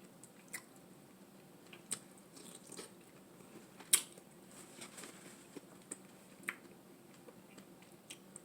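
A person eating close to the microphone: quiet chewing with a few sharp clicks and crunches, the loudest about four seconds in.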